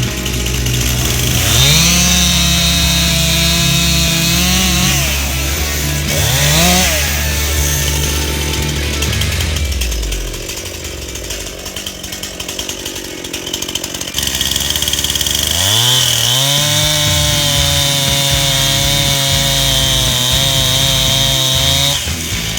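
Stihl MS261 C two-stroke chainsaw revving up to full throttle and cutting beech for a few seconds, dropping back, blipping once, idling, then opening up again for a long full-throttle cut.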